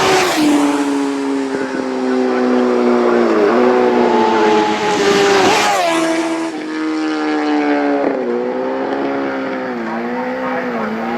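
Racing motorcycles passing at speed on a closed road course, engines at high revs; the engine pitch drops sharply as a bike goes by just at the start, and dips again several more times.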